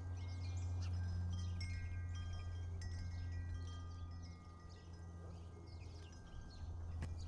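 Chimes ringing, with several sustained tones at different pitches starting and overlapping, over a steady low hum.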